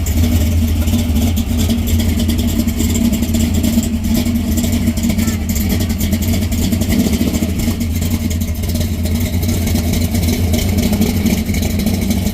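1967 Chevrolet Camaro's engine running at low revs with a steady, deep exhaust rumble as the car drives off.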